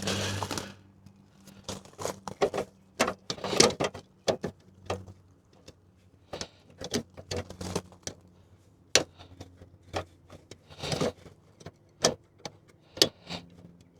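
Scattered clicks, taps and light knocks of plastic parts being handled as an LED headlight bulb is worked into its headlight housing, irregular and a few to the second.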